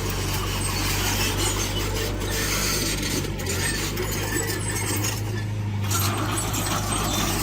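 Heavy earthmoving machinery working: a diesel engine's steady low hum under rough scraping and rasping of metal and soil.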